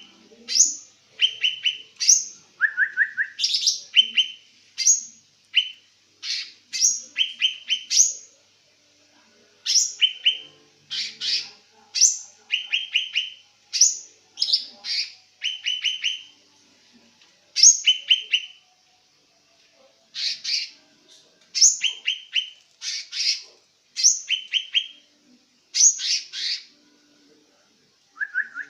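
A bird singing in short, repeated bursts. Each burst is a high downward-sweeping note followed by a quick run of sharp chirps, with brief pauses between bursts.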